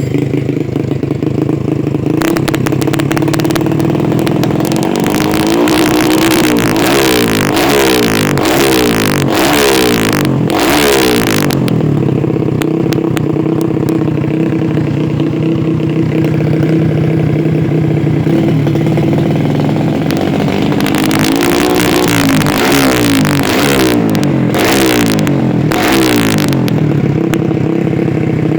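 Yamaha Vega R single-cylinder four-stroke underbone motorcycle, bored up to 130cc and fitted with a Norifumi aftermarket exhaust, running at idle and revved in quick blips in two spells, about two seconds in and again about twenty-one seconds in, settling back to a steady idle in between.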